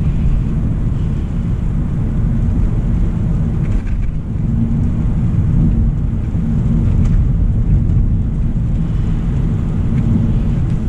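2025 Hyundai Elantra SEL driving at a steady speed, a constant low rumble of road and engine noise, with a few faint ticks.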